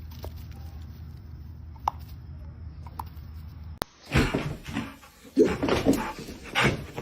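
A low steady hum with a few faint clicks, then, after an abrupt cut about four seconds in, a dog vocalising in loud, irregular bursts.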